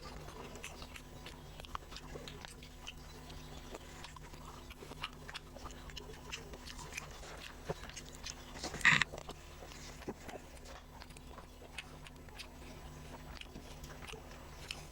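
A person chewing and eating a meal of rice and fish, with many small wet mouth clicks and smacks, over a low steady hum. About nine seconds in there is one brief, louder noise.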